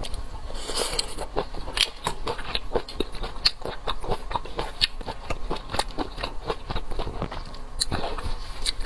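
Seafood being bitten and chewed, a dense run of short clicks and smacks in quick succession, with a brief hiss about a second in.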